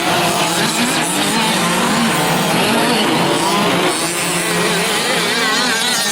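Several 1/5-scale gas RC trucks' small two-stroke engines buzzing together, their pitches rising and falling as they rev up and back off through the race.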